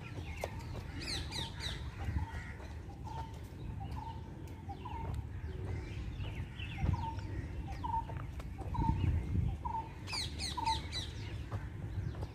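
Birds calling in trees: one bird repeats a short note about once a second, while others give bursts of quick, high, falling chirps near the start and again near the end.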